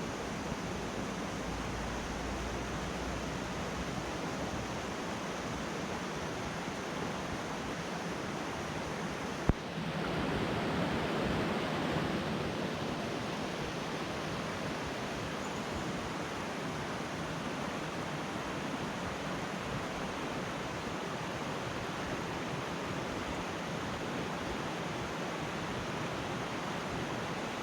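Steady rush of the Putna river's flowing water, with a single sharp click about nine and a half seconds in, after which the rush is briefly louder.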